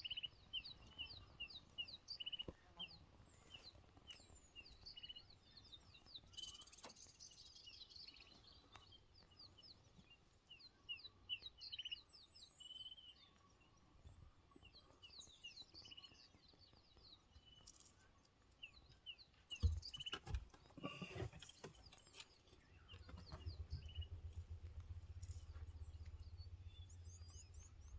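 Faint birdsong: many short chirps repeated over and over. A few knocks come about twenty seconds in, and a low rumble runs through the last few seconds.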